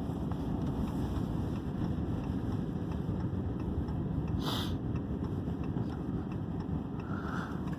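Steady low rumble of a car's engine heard from inside the cabin, with a brief hiss about four and a half seconds in.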